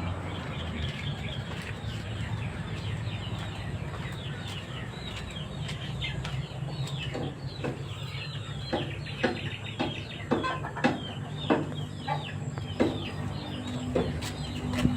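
Chickens clucking and chirping, with a run of sharper, louder clucks coming about every half second in the second half. A low steady hum runs underneath.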